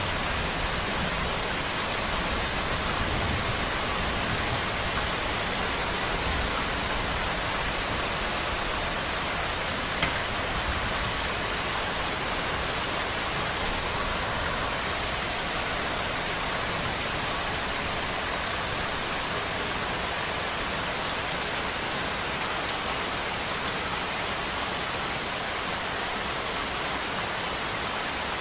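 Steady natural rainfall: an even hiss of rain falling on a surface, with one brief sharper tick about ten seconds in.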